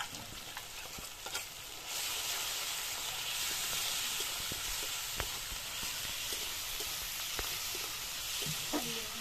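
Ground spice paste and spice powders frying in oil with onions and tomatoes in a kadai. The sizzling grows louder about two seconds in, and a metal spatula clicks and scrapes against the pan as the masala is stirred.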